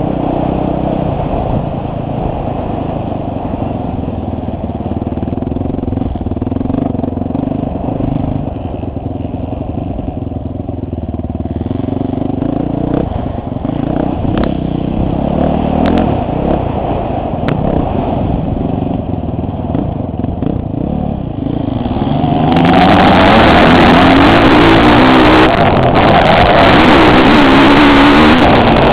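Motocross bike engine heard from a helmet-mounted camera, revving up and down as the rider works the throttle around the track. About 22 seconds in the sound turns much louder and harsher.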